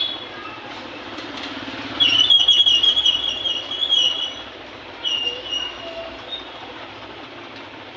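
High-pitched metallic screeching in two bursts, a longer one about two seconds in and a short one around five seconds, over a steady rumbling background.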